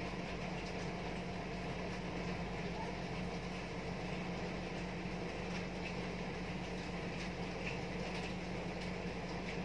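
Steady rain falling, an even hiss without breaks, with a steady low hum underneath.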